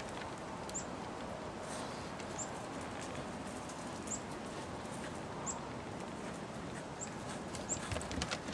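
Steady outdoor background with a small bird's short, high chirp repeated six times, about every second and a half. A few light ticks come near the end.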